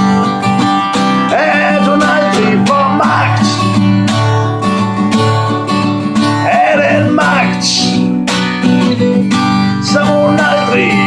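Acoustic guitar strummed steadily in a rolling 6/8 rhythm, with a singing voice coming in now and then over the chords.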